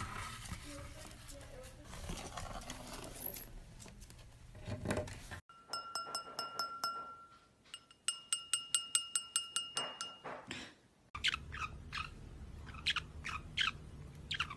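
A run of short, high, bell-like beeps in quick succession, followed by a parrot's sharp chirps, several in a row.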